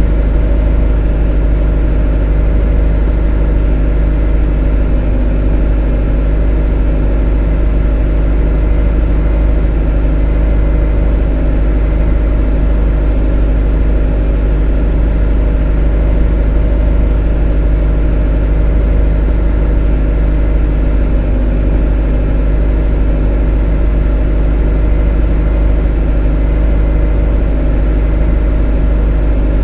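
A motor running steadily and evenly, a deep constant drone with no change in speed.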